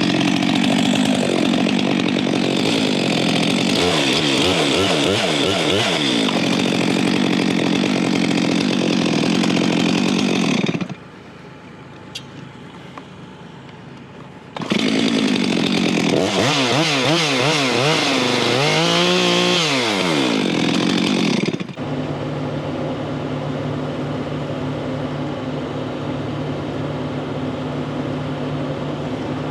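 Stihl chainsaw cutting a pine log, its pitch sagging and recovering under load. It stops about eleven seconds in and starts cutting again about four seconds later. For the last eight seconds a steadier, quieter engine runs.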